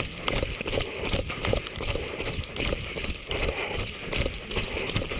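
A runner's footsteps on wet pavement, an even rhythm of soft strikes about three a second, with rushing noise from the moving camera.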